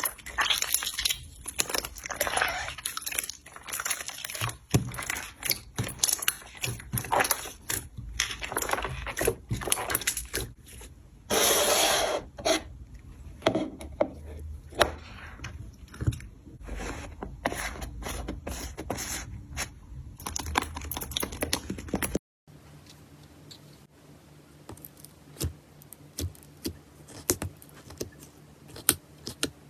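Slime being squeezed and pressed by hand: dense sticky crackling and popping clicks, with a brief louder rush of noise about eleven seconds in. About two-thirds of the way through it cuts to a quieter clip of sparser soft clicks.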